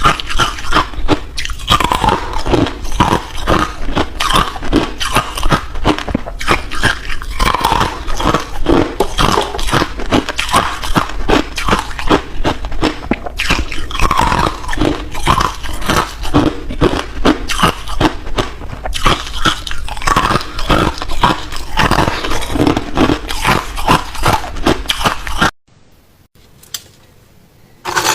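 A person biting and chewing ice: dense, continuous crunching and cracking, stopping abruptly near the end.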